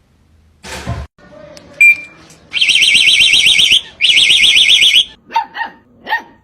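An electronic alarm sounding in two loud bursts of about a second each, a high tone warbling rapidly. After it come a few short, sharp calls that sound like a dog's barks or yelps.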